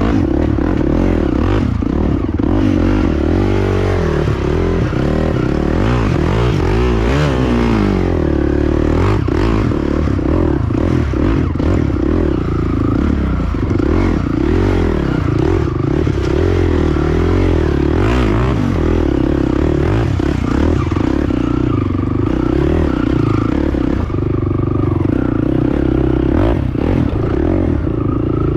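Honda TRX450 ATV's single-cylinder engine running under load, its pitch rising and falling with the throttle, with clattering and scraping knocks from the machine over rough ground.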